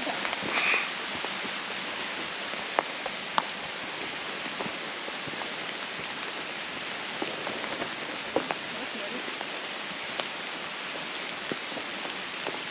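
Steady rain falling in a forest, an even hiss throughout, with a few sharp taps scattered through it.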